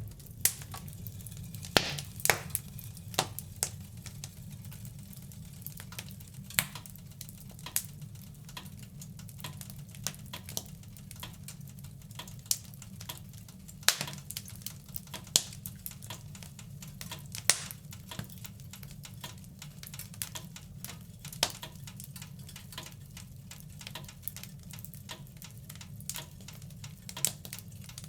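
Wood fire crackling in a fireplace: irregular sharp pops and snaps, a few of them loud, over a steady low rumble of the flames.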